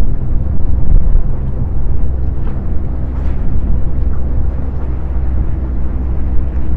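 Strong gusting wind buffeting the microphone: a loud, steady low rumble.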